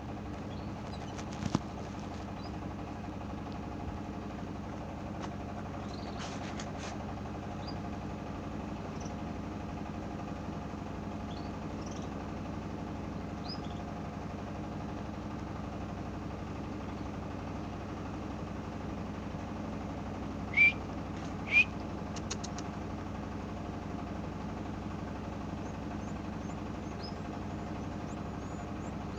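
Canaries giving scattered short chirps, two of them loud and close together about two-thirds of the way through, over a steady low mechanical hum like an idling engine.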